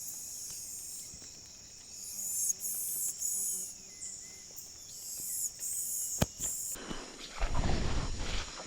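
Rainforest insects buzzing in a high chorus that swells and breaks off in pulses, stopping about seven seconds in. Near the end come rustling footsteps through vegetation.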